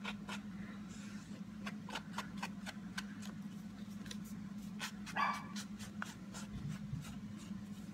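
An ink pad being tapped and rubbed along the edges of a paper card: a run of light, irregular taps over a steady low hum. A brief whine comes about five seconds in.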